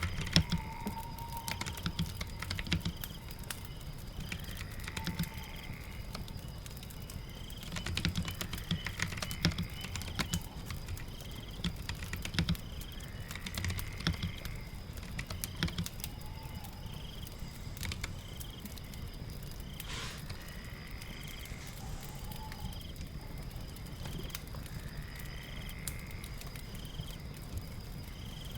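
Computer keyboard typing, irregular clicks, over steady rain patter. In the background a short chirp repeats about once a second and a rising call comes every few seconds.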